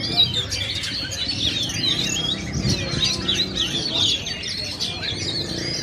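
Many oriental magpie-robins singing at once in a songbird contest: a dense tangle of overlapping whistles and rising and falling phrases.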